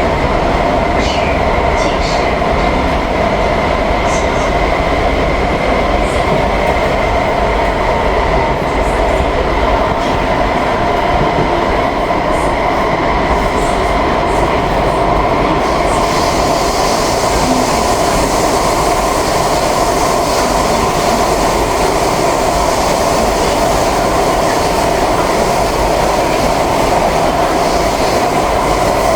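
SMRT C151B metro train running at a steady speed, heard from inside the car: a continuous rolling rumble with steady held tones. A higher hiss joins about halfway through.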